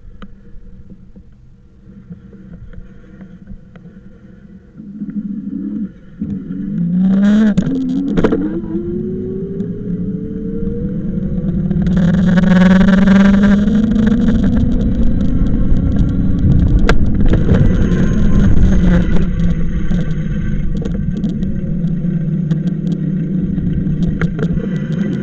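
A vehicle motor speeding up, its pitch rising steadily for several seconds, then running at a steady speed with rushing wind and road noise.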